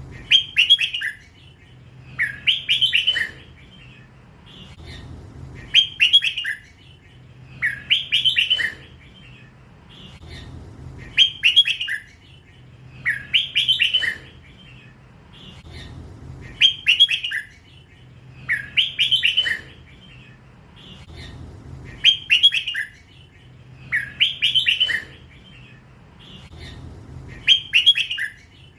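Young hybrid red-whiskered bulbul, still in its first plumage, singing the same short phrase of quick, warbling notes over and over, one phrase about every two and a half to three seconds.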